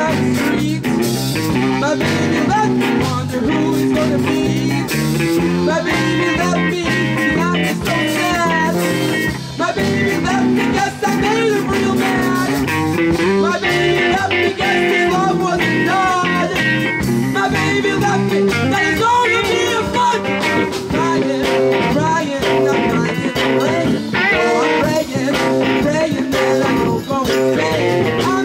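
Live band playing a blues song, with guitar to the fore over a bass line that steps from note to note.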